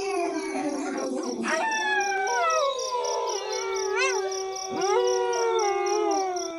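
A pack of wolves howling in chorus: several overlapping long howls sliding slowly in pitch, with a few quick rising-and-falling yelps about four seconds in.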